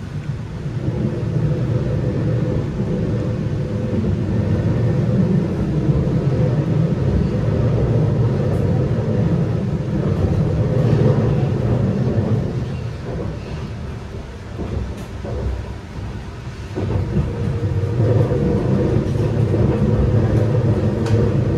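Low, steady rumble of the Saphir Odoriko express train running on the rails, heard from inside its cafeteria car. It eases off briefly about two-thirds of the way through, then builds again.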